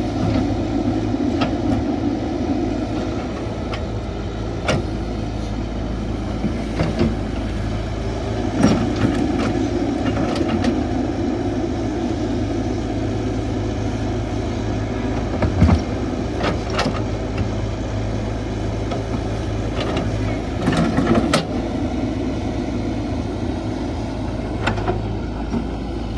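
Caterpillar 312 excavator's diesel engine running steadily while digging soil, with short knocks and clanks scattered throughout.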